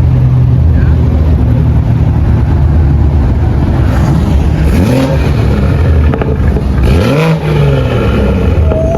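BMW sedan's engine idling with a steady low rumble, then revved twice, its pitch sweeping up about five seconds in and again near the seven-second mark.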